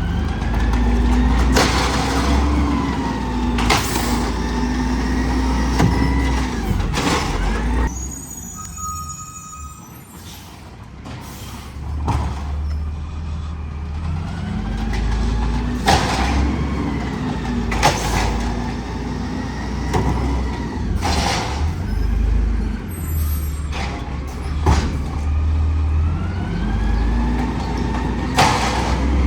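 Garbage truck at work: the engine revs up and settles in repeated cycles as it powers the hydraulic lift, with sharp bangs and clanks as carts are emptied. There is a brief lull about a third of the way through, and then the cycle repeats twice.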